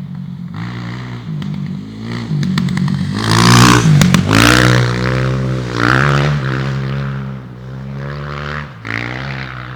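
A stage-rally vehicle's engine revving hard, its pitch stepping up and down. It is loudest about four seconds in, with a rush of scraping noise and a few clicks around that peak.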